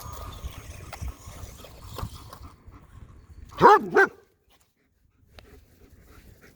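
A dog barking twice in quick succession, about halfway through.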